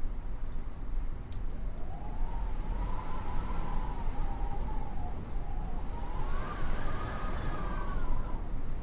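Wind howling in a wavering tone that slowly rises and falls, over a steady low rumble, with a few faint clicks between one and two seconds in.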